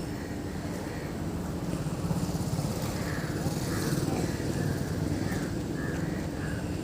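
An engine runs steadily with a low rumble that grows a little louder for a few seconds in the middle. Short calls, like birds, repeat over it about every half second.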